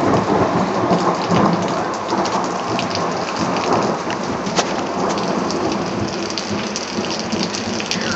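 Heavy rain pouring down during a thunderstorm, dense with the patter of drops, with a roll of thunder that is loudest in the first second or two and slowly fades.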